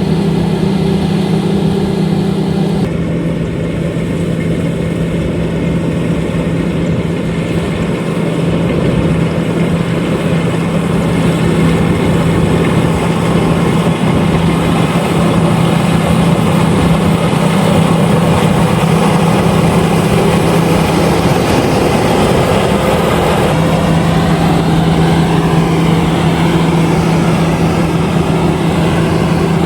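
Combine harvester running steadily: a loud, continuous engine drone with a strong low hum, its pitch stepping down slightly about three seconds in.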